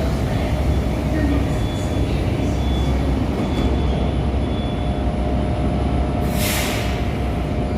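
Moscow metro train running through the tunnel, heard from inside the car as a steady, loud rumble of wheels on rail. A brief hiss comes about six and a half seconds in.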